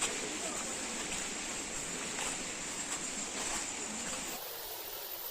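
Steady rushing of a forest stream or river. The sound changes abruptly about four seconds in, becoming thinner and quieter.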